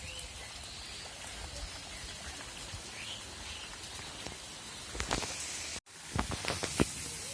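Steady outdoor hiss with a few faint bird chirps. A run of sharp clicks or knocks comes near the end, broken by a brief dropout.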